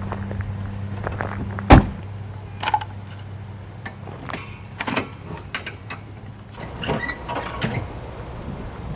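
A vehicle door shuts with a single loud thud just under two seconds in, over a steady engine hum that then dies away. Scattered clicks and knocks follow.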